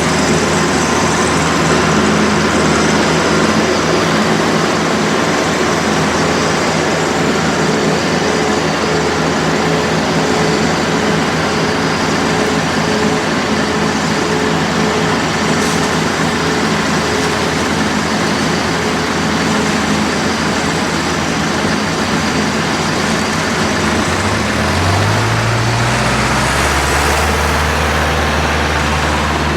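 Farm tractor engine running steadily under load, with a constant mechanical din. About 25 seconds in, an engine revs up and holds a higher pitch.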